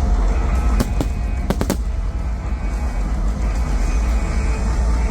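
Fireworks display with show music playing over a deep, constant low rumble. Sharp firework bangs come about a second in, then a quick cluster of them just before two seconds.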